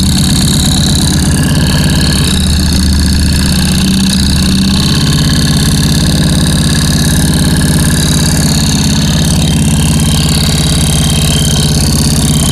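Engine idling steadily, loud and close.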